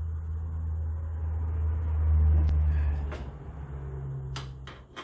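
A machine's steady low hum that swells and then dies away about three seconds in, followed by a few sharp clicks.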